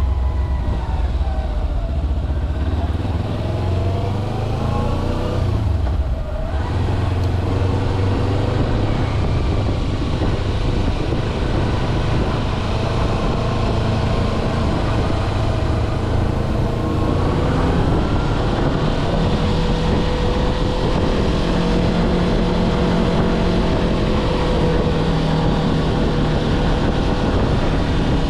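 Kawasaki Versys-X 250's parallel-twin engine running while riding, its note dropping about six seconds in, then climbing again a little past the middle before holding steady.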